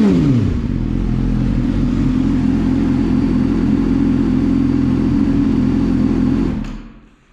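Yamaha YZF-R6 inline-four engine falling back from a brief rev to a steady idle, then switched off about six and a half seconds in, the sound dying away within half a second.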